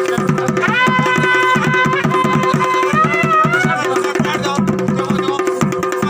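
Uttarakhandi chholiya dance music: fast, even drumming with a wind-instrument melody over a steady drone. The melody holds long notes and bends in pitch about three seconds in.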